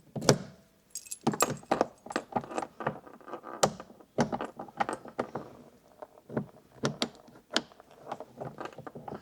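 Keys jangling and small metal parts of a motorhome door security lock clicking and rattling as it is worked by hand, in many irregular clicks with louder knocks just after the start and about three and a half seconds in. The newly fitted lock is not working.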